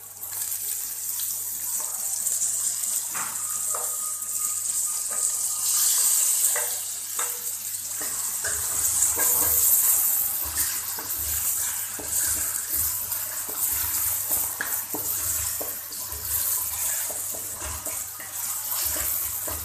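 Chopped tomatoes sizzling in hot oil with fried onions in a metal wok, with the hiss setting in as they go in. A wooden spatula scrapes and knocks against the pan as it stirs.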